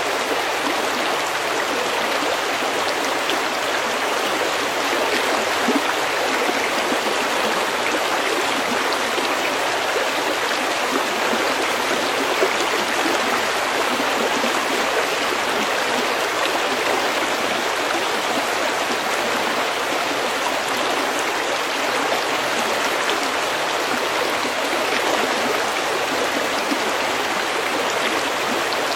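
A snowmelt stream flowing over pebbles: a steady, even rush of water that holds at one level throughout.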